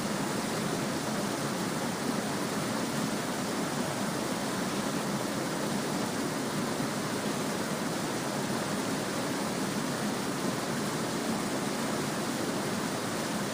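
Small stream babbling steadily, an even rush of flowing water.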